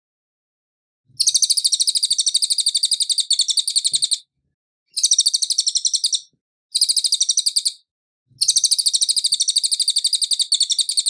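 A cililin singing: rapid, high chattering trills of fast repeated notes, in four bursts of about one to three seconds each with short pauses between.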